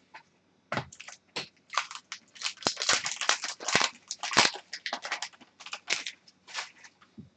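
Foil trading-card pack wrapper crinkling and tearing as it is ripped open and handled, a rapid run of short crackles.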